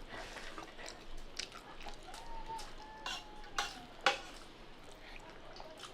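Scattered light clicks and clinks of a meal being eaten from a plate.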